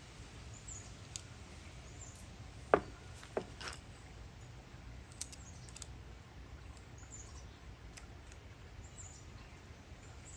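A few sharp clicks and taps of small Stihl 039 carburetor parts being handled and fitted back together, the loudest about three seconds in, over a low steady hum. Faint high bird chirps now and then.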